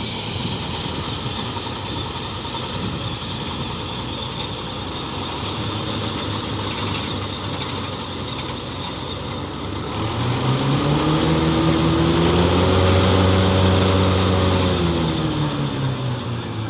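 Tractor engine running steady, then revving up about ten seconds in, holding for a few seconds, and easing back down near the end.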